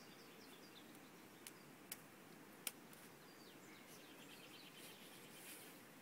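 Faint wild birds chirping: a few short, sharp chips, then a quick high trill about four seconds in, over a quiet outdoor background hiss.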